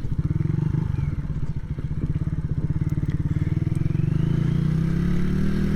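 Small motorcycle engine running at low revs while the bike is turned around, with its firing pulses close and even. The pitch edges up a little near the end as the rider opens the throttle.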